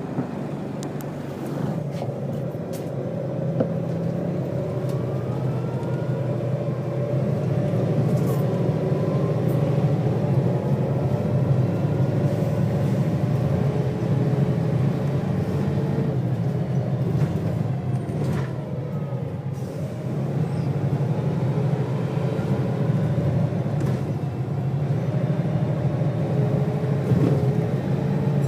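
Volvo B6BLE single-deck bus's diesel engine running with a steady low drone and thrash while the bus drives, a few faint rising tones above it. The level rises somewhat over the first several seconds, with scattered light clicks and rattles.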